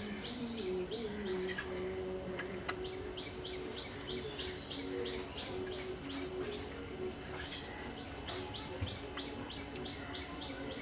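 A bird chirping in quick runs of short, high, evenly spaced chirps, each run lasting about a second and repeating with short gaps, over a steady low hum.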